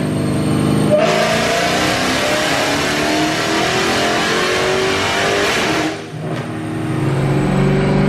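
Dodge Hellcat's supercharged 6.2-litre Hemi V8, breathing through Borla ATAK mufflers, making a full-throttle pull on a chassis dyno: about a second in it goes to wide-open throttle and the loud roar climbs slowly in pitch for about five seconds. About six seconds in the throttle is cut, and the engine settles back to a steady run.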